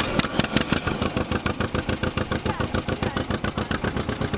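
1955 John Deere 40 S tractor's two-cylinder engine running steadily just after starting, with an even, rapid exhaust beat.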